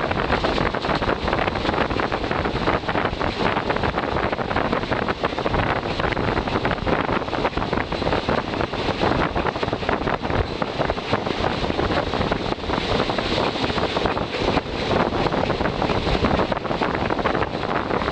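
Train running noise: a steady rush with rapid rattling clatter, mixed with wind buffeting the microphone.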